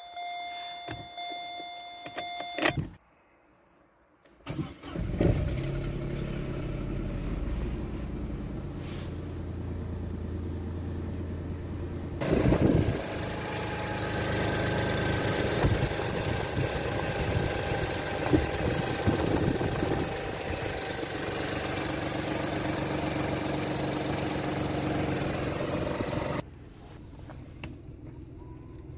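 Vauxhall Corsa D's 1.0-litre three-cylinder A10XEP petrol engine cranking and starting about five seconds in, then idling steadily. A steady electronic tone comes before the start, and the idle is heard close up and louder from about twelve seconds in, then quieter near the end.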